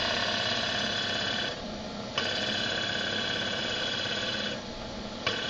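Milling machine end mill cutting metal with a steady, high, ringing whine. The whine stops about a second and a half in, starts again about two seconds in, and stops shortly before the end as the cut is fed in and backed off.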